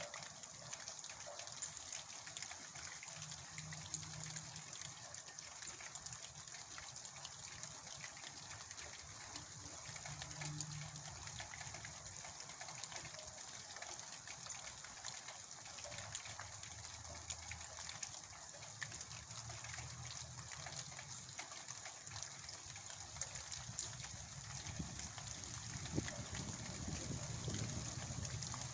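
Heavy rain falling steadily, a constant hiss of water with many small drops ticking through it.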